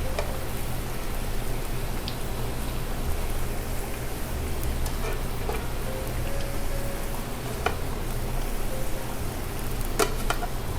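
Curry sauce simmering in a pan, a steady bubbling sizzle, with a few light clicks, a couple of them close together near the end.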